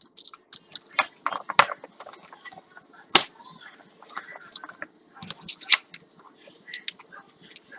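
Packaging being handled: irregular crinkles, clicks and rustles of plastic and paper, with a sharp tap about three seconds in.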